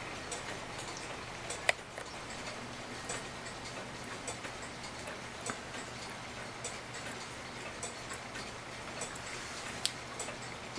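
Faint ticking of a mechanical clock, with a few sharper clicks and a low steady hum underneath.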